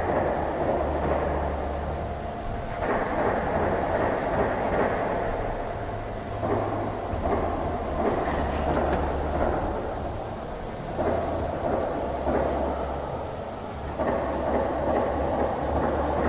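Fermat WFT 15 horizontal CNC boring mill running: a steady mechanical rushing noise, with a low drive hum that starts and stops every few seconds.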